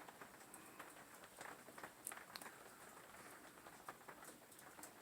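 Near silence: room tone with a few faint, scattered light clicks.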